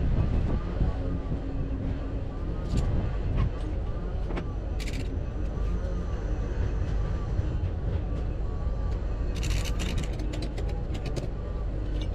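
An engine running steadily, with scattered sharp clicks, most of them in a quick cluster near the end.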